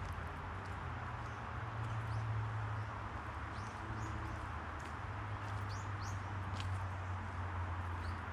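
Outdoor park ambience: short, high bird chirps come every second or so over a steady low hum.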